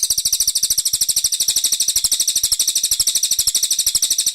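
Brown cililin bird song: a high, rapid, even trill of about a dozen notes a second, held steady throughout.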